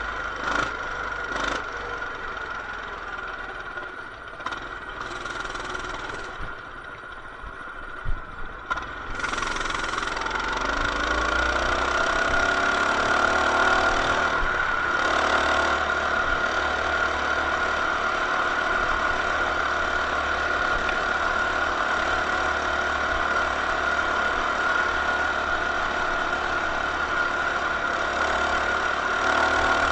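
Coleman BT200X mini bike's single-cylinder engine running as it is ridden: quieter for a few seconds, then about nine seconds in it revs up with a climbing pitch as the bike accelerates, and holds steady at speed for the rest.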